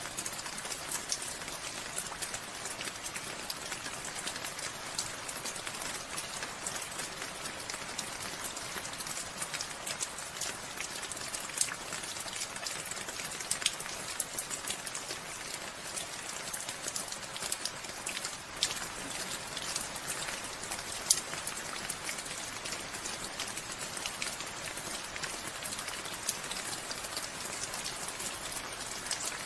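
Steady rain falling, a constant hiss with many individual drops tapping close by.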